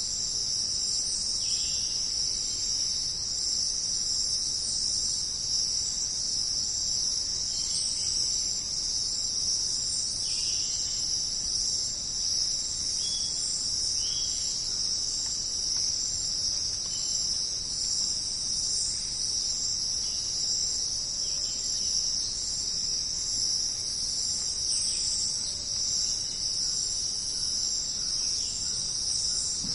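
Jungle ambience dominated by a dense insect chorus: a steady, unbroken high-pitched buzzing drone, with brief chirps scattered through it every few seconds.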